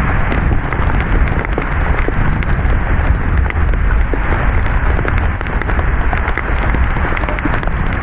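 Heavy thunderstorm rain pouring down, a dense patter of drops, over a steady low rumble of gusty wind.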